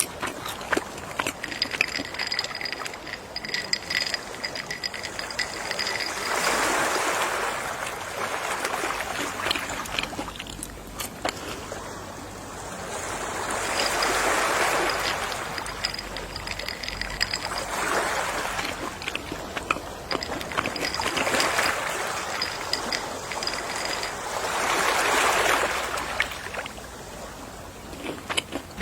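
Gentle ocean waves washing ashore, each swell rising and falling about every three to four seconds, with a fizz of small crackles as the water runs back. A faint, high, wavering tone recurs in the lulls between waves.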